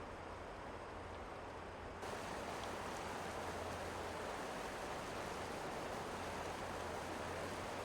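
Mountain river rushing in a steady, even roar of water. About two seconds in, it abruptly becomes louder and brighter, then holds steady.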